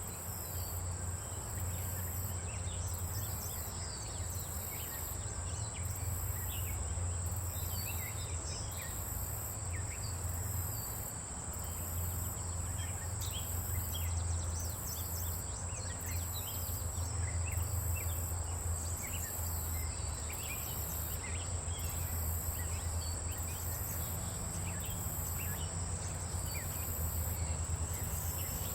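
Insects calling: a steady high-pitched drone with a rhythmic chirp about once a second, and short bird chirps scattered through, over a steady low hum.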